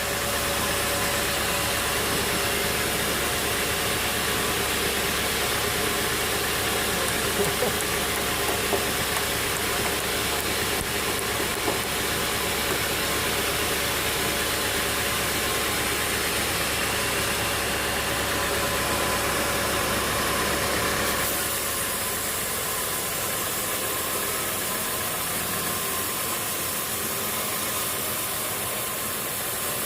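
Steady machinery noise with an engine running, a dense hiss over a low hum. About 21 seconds in the low hum drops away and the sound becomes thinner.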